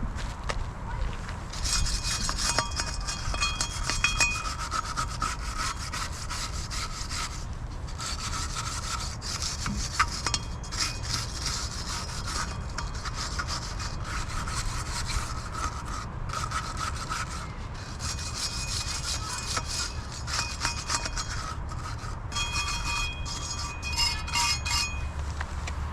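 Rust being scrubbed off a steel wheel by hand with an abrasive: repeated scratchy back-and-forth strokes in long stretches with a couple of brief pauses, cleaning the metal so the paint will grip.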